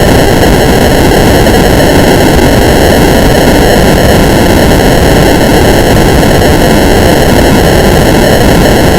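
Extremely loud, steady wall of harsh static-like digital noise from an audio-distortion edit effect, clipped near full volume, with no voice coming through.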